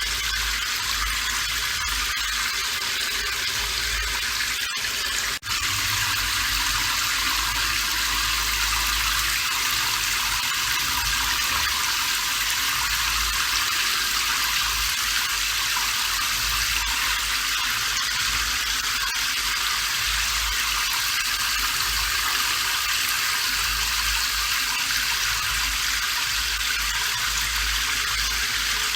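Steady rain falling, an even hiss. The sound drops out for an instant about five seconds in.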